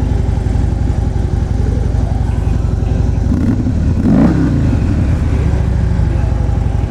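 2014 Harley-Davidson Street Glide's 103 cubic-inch high-output V-twin running at idle with a steady, deep rumble. About four seconds in there is a short rise and fall in pitch and level.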